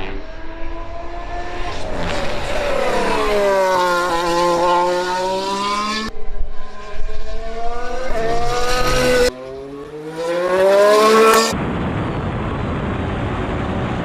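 Mercedes Formula 1 car's turbo V6 engine on track: its pitch falls, then climbs again through the gears, with sharp breaks at the shifts. Near the end the engine gives way to a steady rushing noise.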